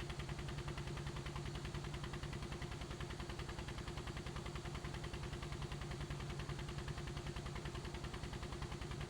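Helicopter rotor turning steadily: a rapid, even beat of blade pulses over a steady engine hum.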